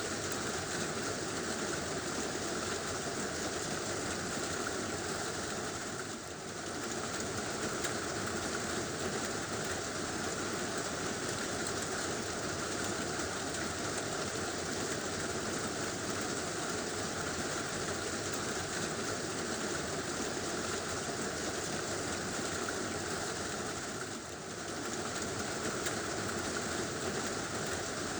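Heavy rain drumming steadily on a tin roof, a dense even hiss that dips briefly twice.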